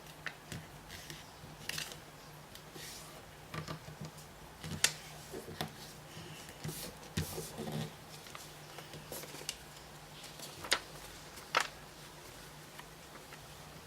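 Paper being handled and folded into an origami bird: scattered crisp crinkles and taps as it is creased, the sharpest about five seconds in and twice near eleven seconds, over a faint steady hum.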